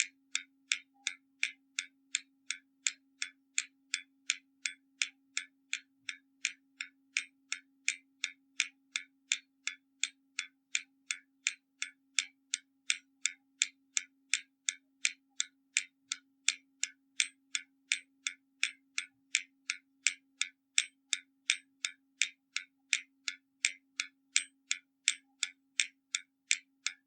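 Hermle mechanical skeleton clock ticking steadily, its escapement giving a little over two sharp, even ticks a second.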